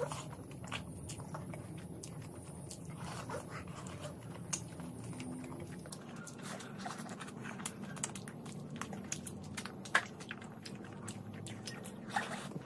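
Wet chewing and lip-smacking of someone eating curried mutton and rice by hand, with many short sharp mouth clicks, the sharpest about ten seconds in.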